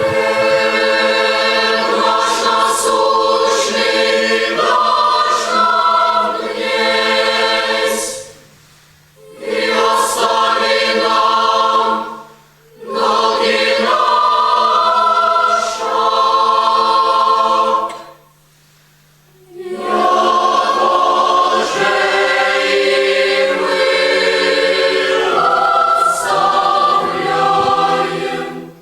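Boys' and youths' choir singing, sustained chords in four phrases with brief pauses between them.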